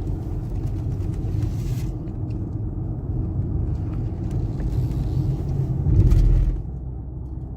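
Steady low rumble of a car on the move, engine and road noise, with a louder rush about six seconds in that falls away half a second later.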